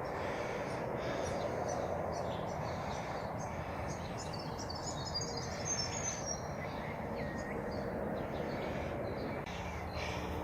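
Birds chirping outdoors, a quick run of short high calls about halfway through, over a steady distant hum that the listener takes for a garbage truck somewhere off down the road.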